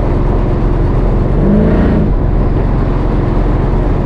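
Modified Chevy C10 truck's engine running steadily under way, a loud even rumble heard from inside the cab.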